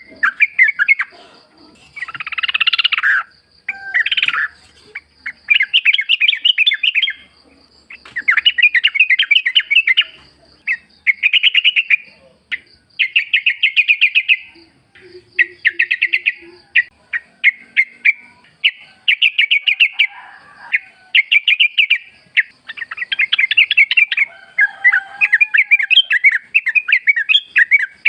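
Yellow-vented bulbul (trucukan) singing in the wild: repeated bubbling phrases of quick chattering notes, each a second or two long with short pauses between them. A thin steady high tone runs underneath.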